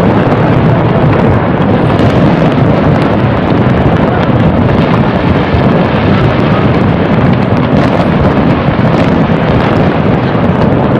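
Loud, dense barrage of fireworks going off, the bangs and crackle of many shells and rockets running together into one continuous rumble.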